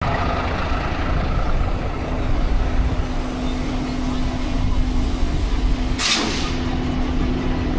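Truck engine running steadily with a low rumble and hum. About six seconds in there is one short, sharp hiss of air from the truck's air brakes.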